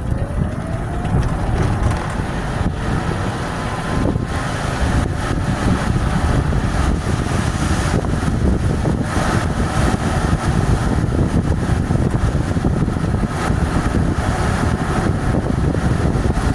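2006 Club Car DS electric golf cart with an Admiral high-speed motor driving downhill on a wet, bumpy street: a faint motor whine rises in pitch over the first few seconds as it speeds up, under a steady loud rumble of tyres and road noise.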